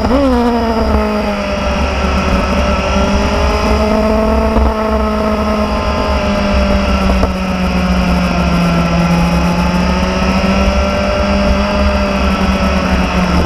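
Motorcycle engine running while riding: a quick jump in revs right at the start, then a steady engine note that drifts slightly up and down, with a low wind rumble underneath.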